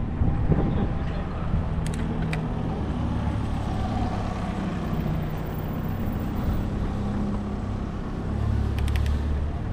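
Road traffic: a motor vehicle's engine running with a steady low hum that swells near the end, with a few brief clicks.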